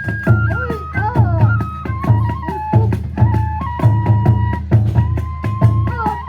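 Kagura hayashi music: a bamboo transverse flute plays a held, stepping melody over quick groups of big taiko drum beats, with sharp metallic strikes of small hand cymbals throughout.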